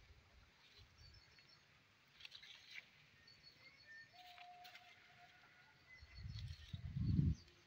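Small birds chirping in the background, short high notes repeated in quick series. Between about six and seven and a half seconds, a louder low rumbling on the microphone is the loudest sound.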